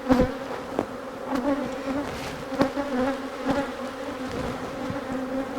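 Honeybees from an opened hive buzzing, a steady hum of many wings, with a few sharp knocks along the way.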